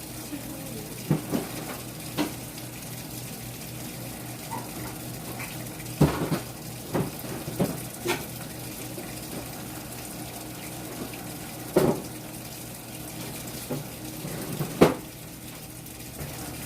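Washing machine running in the background with water sloshing, under scattered knocks and clatters of things being handled, the loudest about 6, 12 and 15 seconds in.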